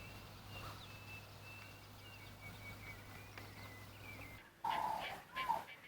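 Faint wild soundscape: thin, high bird chirps over a low steady hum. About four and a half seconds in, after a brief break, louder animal calls begin.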